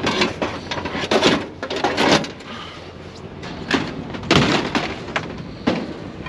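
A string of clunks and clatters as scrap items are handled and set down, about six sharp knocks spread over several seconds.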